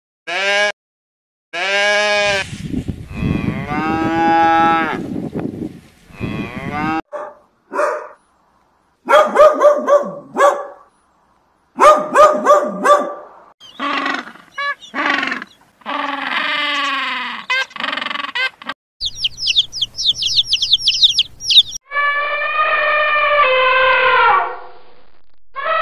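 A string of separate animal calls cut one after another with short gaps, cows mooing among them. Long pitched calls alternate with shorter repeated ones, with a burst of fast, high chirping about three-quarters of the way through and a long falling call near the end.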